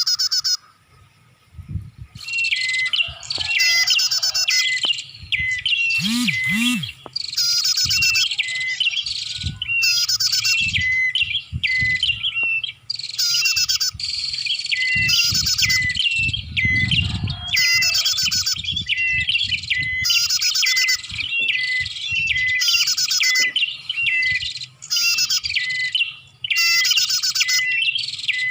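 Prinia (prenjak) lure-call recording: bursts of rapid, high chirping song, each about a second long, repeated one after another, with a few faint low knocks underneath.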